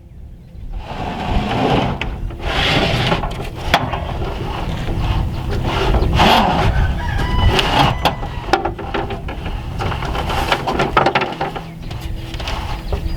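A rooster crowing, mixed with knocks and scraping from a sheet of wood sheathing being handled and hoisted up a ladder.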